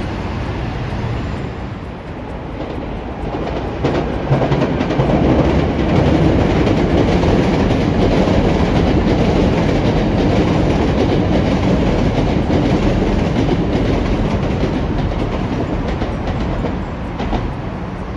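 A train passing on the line, its running noise swelling about four seconds in, holding steady, then fading near the end.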